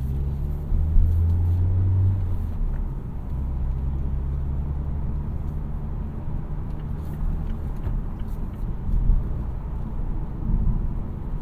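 2017 Mazda CX-3's 2.0-litre SkyActiv-G four-cylinder petrol engine pulling the car along, a steady low drone over tyre and road noise. The engine note is strongest in the first couple of seconds and fades back into the road noise after about seven seconds.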